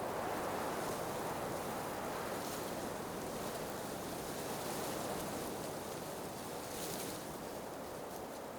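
Blizzard wind blowing in a steady rush that swells and eases, with a short hissing gust about seven seconds in.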